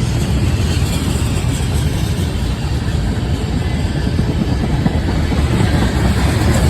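Freight train cars rolling past on the rails: a loud, steady noise of steel wheels on track.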